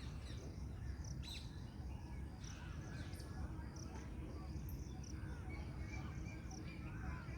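Birds chirping and calling: many short, overlapping chirps scattered throughout, over a steady low rumble of background noise.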